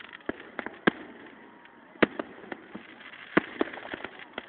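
Fireworks going off at irregular intervals: sharp bangs and smaller pops, with the loudest bangs about one, two and three and a half seconds in, over steady background noise.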